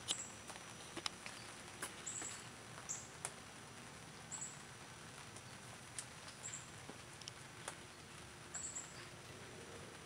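Faint, short high-pitched chirps of a small bird, repeated every one to two seconds, over scattered light clicks and taps.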